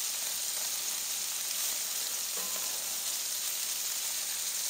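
Shrimp and andouille sausage sizzling on a hot Blackstone flat-top griddle: a steady frying hiss.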